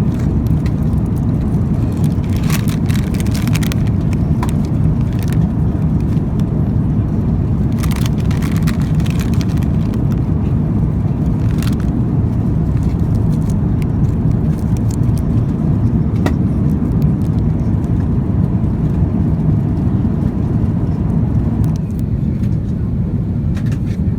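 Steady low roar of an Airbus A350-900's cabin noise, with occasional light rattles or clicks.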